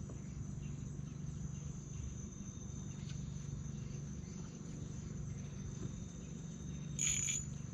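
Night insects in riverside forest chirring steadily in a continuous high-pitched trill, with a brief louder, sharper noise near the end.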